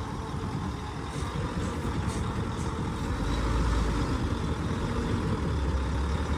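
Truck engine running low and steady under light throttle while pulling on the winch line, getting slightly louder about halfway through.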